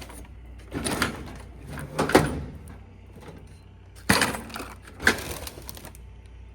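Rummaging through stored tools and clutter: a few short clattering rattles of objects being moved and shifted, over a steady low hum.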